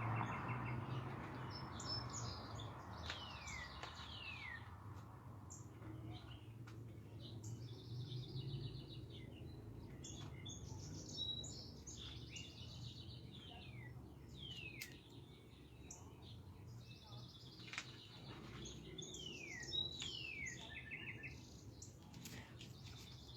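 Backyard songbirds singing, with repeated clear whistles that slide down in pitch every second or two, mixed with quicker chirps and short trills. A low steady rumble sits underneath, strongest at the start and fading away.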